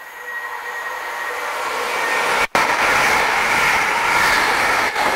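A passenger train approaching and passing close by at speed: a rushing roar of wheels and air that builds, then holds loud as the carriages go by. The sound drops out for an instant about halfway through.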